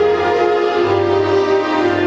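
Orchestral music with strings, playing a melody of held notes over a steady bass.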